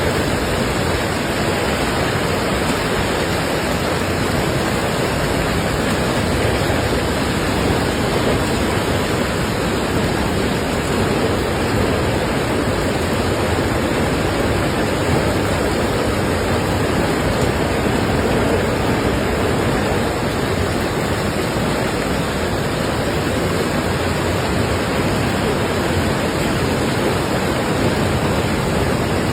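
Heavy rain falling in a steady downpour, a dense even hiss that does not let up.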